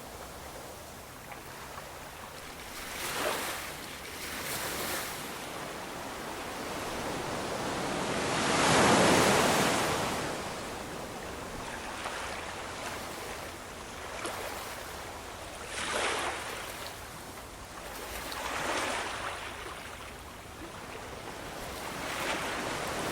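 Ocean waves breaking and washing on the shore in a steady roar. The surf swells with each wave, and the largest breaker comes about a third of the way in, followed by several smaller ones.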